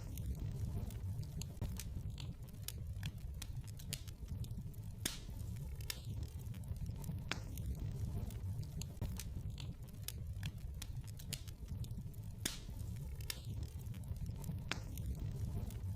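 Wood fire burning in a fireplace: irregular crackles and sharp snaps over a steady low rumble of the flames.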